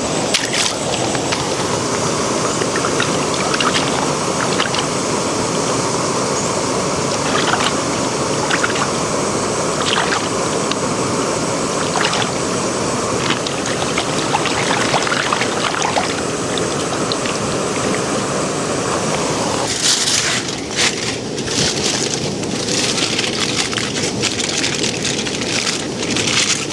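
Steady rush of flowing stream water with scattered faint clicks. About twenty seconds in, the sound gives way to a denser, loud crackling sizzle.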